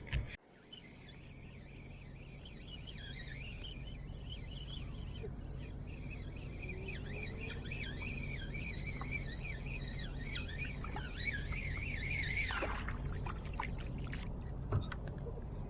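Birds chirping and twittering continuously over a low, steady rumble; the chirping stops a little before the end.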